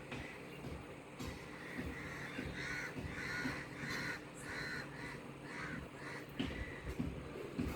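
Crows cawing: a quick run of about ten caws, roughly two a second, over a steady low hum.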